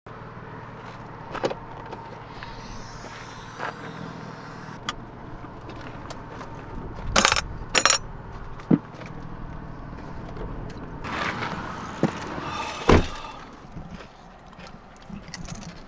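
Steady road and engine noise inside a moving 4th-gen Toyota 4Runner, with scattered clicks and rattles and a few loud sharp knocks, two of them close together about halfway through and another a few seconds later.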